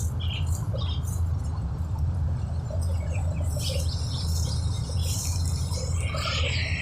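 Preet 987 combine harvester running with a steady low drone. Short, scattered high chirps and crackles sound over it, thickening in the second half.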